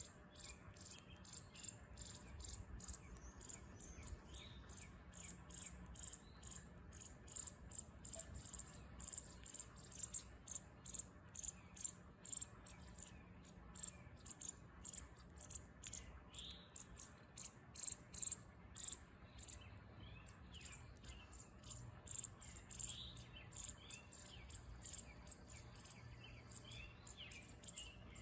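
Faint insect chirping, a fast run of very high-pitched pulses, with short bird chirps mixed in. The bird chirps grow more frequent after about halfway.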